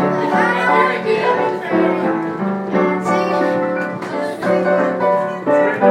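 A voice singing held melody notes over piano accompaniment.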